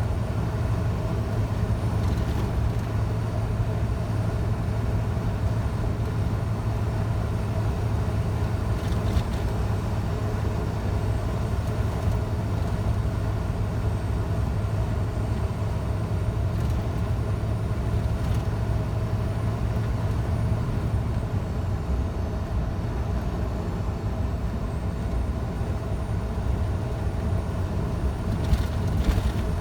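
Scania truck's diesel engine running steadily while cruising, a constant low drone mixed with road noise, with a few faint knocks along the way.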